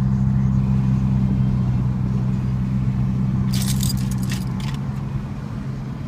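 Car engine and road noise heard inside a moving car's cabin, a steady low drone. A little past the middle comes a brief run of light metallic jingling, about a second long.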